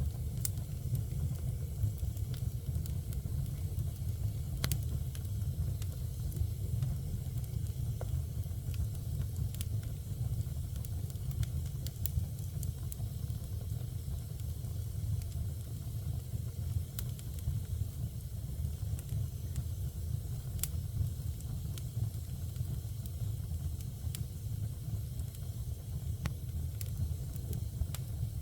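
Fire burning in a fireplace: a steady low rumble of flame with scattered sharp crackles and pops at irregular intervals.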